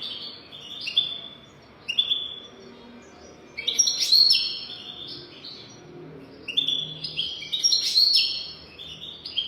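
European goldfinch singing: bursts of quick, twittering high notes in phrases with short pauses between them, the loudest phrases about halfway through and again near the end.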